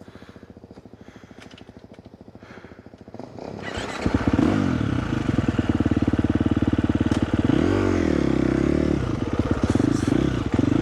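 Dirt bike engine ticking over quietly, then from about four seconds in running loud, with a brief rise and fall in revs partway through.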